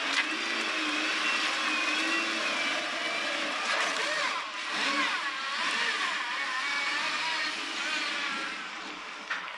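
Mercedes-Benz CLK GTR Roadster's 6.9-litre V12 running at low speed as the car pulls away, its revs rising and falling in light blips, then fading as it moves off near the end.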